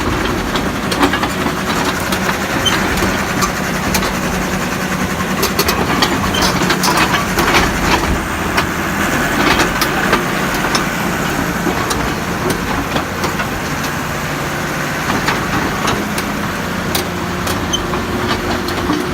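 CAT D5G LGP bulldozer's diesel engine running steadily, with frequent metallic clicks and clanks over it, busiest around the middle.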